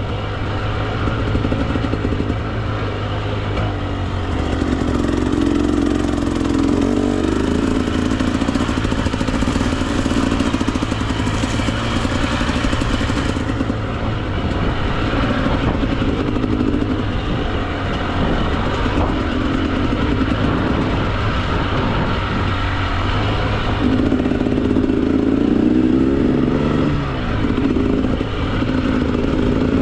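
2024 Husqvarna TE 300 two-stroke dirt bike engine running on and off the throttle, its pitch rising and falling over and over.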